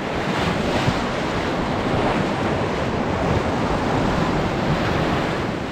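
River rapid rushing around a raft, a loud steady wash of whitewater, with wind on the microphone.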